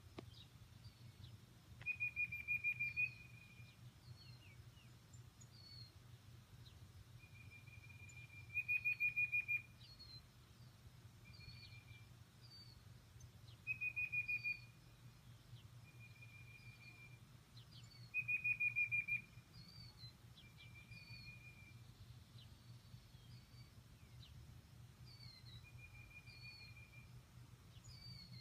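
Birds singing: a loud, rapidly pulsed trill comes four times, about every five to six seconds, with softer single whistled notes between and short high chirps throughout. A faint low steady hum lies underneath.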